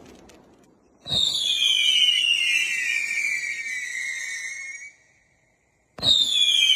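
Firework cake firing whistle shots: about a second in, a sudden launch and a loud whistle that falls in pitch for nearly four seconds, then cuts off; after a short silence a second whistle shot starts near the end.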